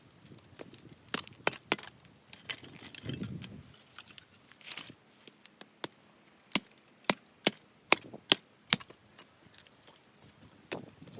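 Hatchet chopping firewood into smaller pieces: a series of sharp wooden knocks at an irregular pace, with a quicker even run of about six strikes in the middle of the stretch.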